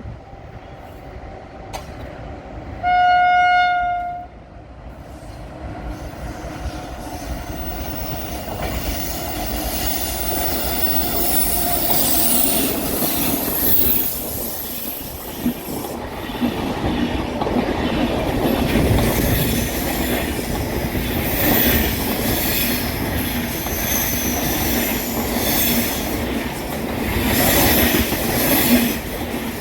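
Indian Railways train horn gives one short single-note blast, then the train comes up and runs past, its rumble building and staying loud, with wheel flanges squealing on the curve and the clickety-clack of wheels over rail joints.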